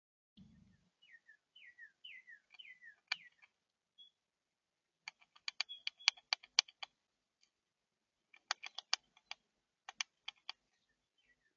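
A brief low thump, then a bird singing a quick series of about five down-slurred whistled notes. Then two quick runs of sharp clicks, typical of birds pecking and cracking seed on the feeder close to the microphone.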